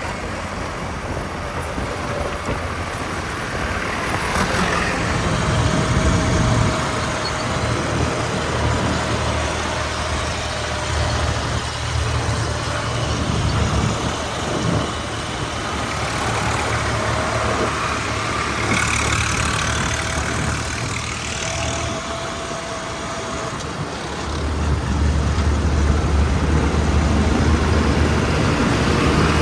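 Diesel engine of a JCB 3DX backhoe loader running under working load, its low note shifting in pitch and level as it digs and loads mud.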